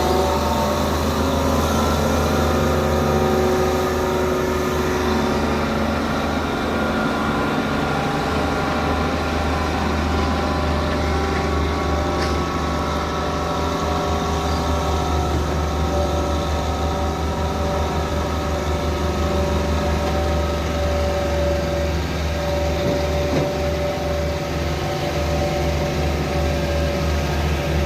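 Heavy diesel engine running steadily, its pitch drifting slightly up and down.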